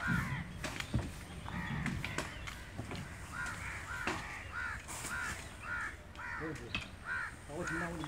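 A bird calling over and over in a run of short, harsh arched calls, about two a second, starting about three seconds in. A few sharp knocks are heard among the calls.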